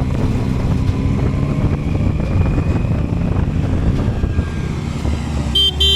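Motorcycle engine running steadily while riding, a continuous low drone. A brief rapid high-pitched beeping comes near the end.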